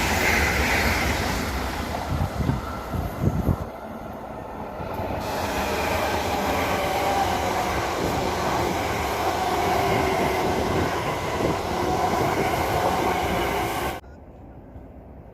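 A passenger train passing close by with a steady rumble and roar of wheels on the rails, faint squealing tones running through it and a few low thumps in the first few seconds. The sound drops off abruptly about a second before the end.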